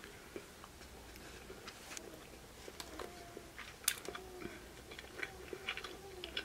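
Close-up chewing of a chicken wing: soft wet mouth sounds and scattered clicks, with one sharper click about four seconds in.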